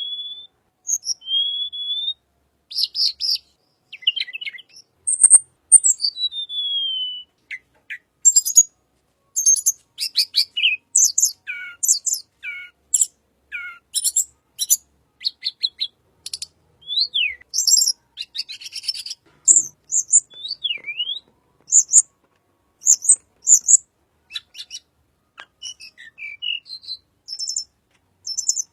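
Tledekan songbird singing: a quick run of short, high chirps, thin whistled slurs that rise and fall, and buzzy trilled notes, separated by brief pauses.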